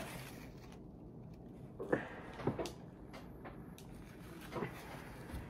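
A person eating close to the microphone: a few short chewing and mouth sounds, about two seconds in, twice around two and a half seconds, and once more near four and a half seconds.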